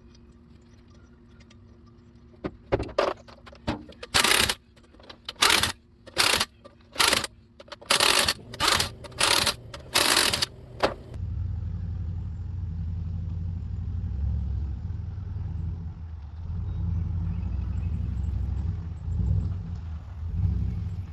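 About a dozen short, loud bursts of noise in quick, uneven succession, then from about 11 seconds in an engine runs steadily with a low rumble.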